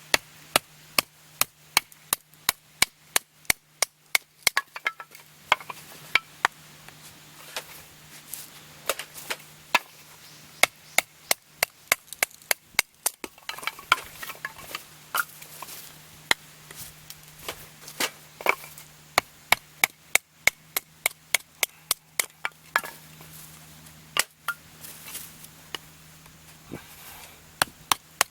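Wood being chopped into small pieces with repeated sharp strikes, about two to three a second, in runs with short pauses.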